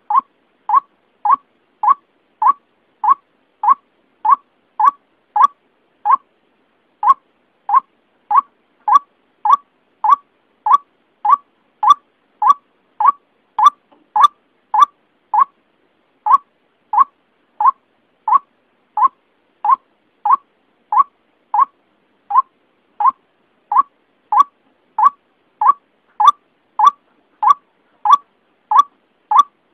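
White-breasted waterhen (ruak-ruak) call played as a bird lure: one short call repeated steadily, about three every two seconds, with brief pauses about six seconds in and twice more later.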